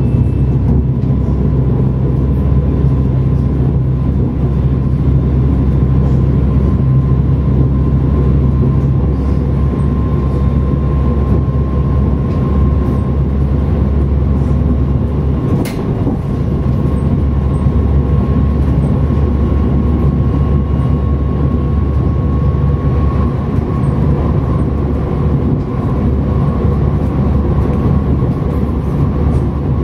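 Siemens Mireo (class 463) electric multiple unit running along the line, heard from inside the train: a steady loud rumble of wheels on track with a thin steady whine above it, and a single sharp click about halfway through.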